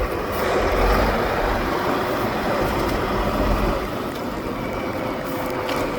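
Heavy off-road trial truck's engine running, with a deep rumble that is strongest in the first few seconds and eases off after that.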